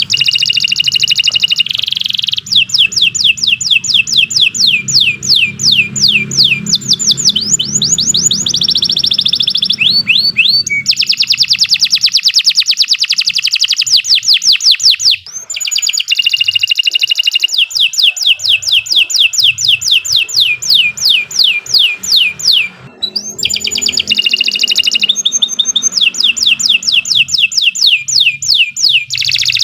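Domestic canary singing a long, continuous song of fast trills of repeated notes and falling whistled sweeps, broken only by brief pauses about every five to eight seconds. A low hum runs underneath for the first twelve seconds or so.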